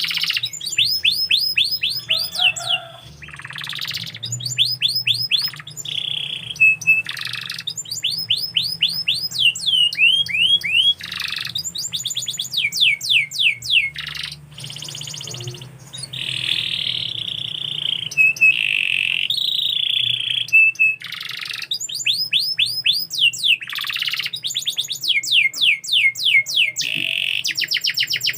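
Domestic canary singing a long, varied song: rapid runs of repeated down-slurred notes, fast trills and buzzy rolling phrases, broken by brief pauses.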